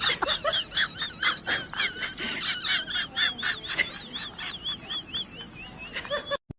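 Small birds chirping: rapid, repeated high warbling calls, several overlapping, that stop abruptly near the end.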